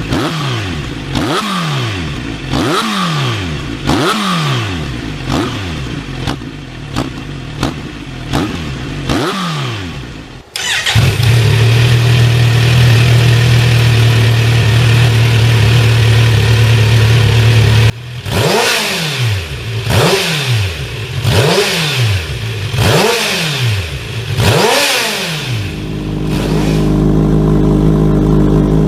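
Kawasaki Z900RS inline-four through an aftermarket exhaust, blipped in short revs one after another. About ten seconds in, an abrupt cut leads to the engine held steady at high revs for several seconds. Then come more quick blips, settling to a steady lower running sound near the end.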